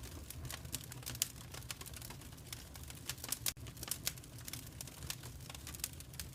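Wood fire crackling: irregular sharp snaps and pops, a louder pop about three and a half seconds in, over a steady low rumble of burning.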